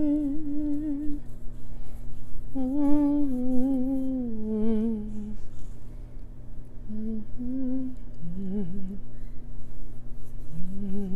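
A woman humming a slow, mournful Chinese song melody without words, in long held notes with a wavering vibrato, phrase after phrase with short breaks. A steady low hum sits underneath throughout.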